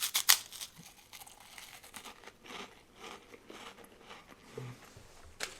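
Crunchy snack being bitten and chewed close to the microphone: a few loud crunches at the start, then fainter chewing.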